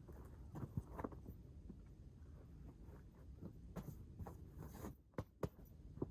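Faint handling noises at close range: rustling and scraping with a few sharp clicks and knocks, over a low steady rumble.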